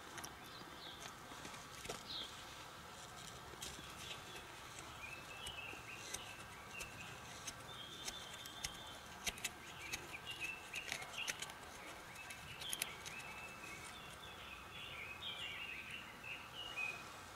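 Faint outdoor ambience with birds chirping in short scattered calls, and a few sharp light clicks around the middle.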